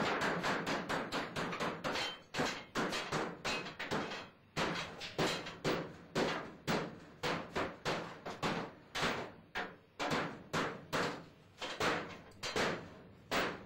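Repeated hard blows on an old coal furnace, a fast, uneven series of about two to three strikes a second, as it is banged on to test whether it holds together.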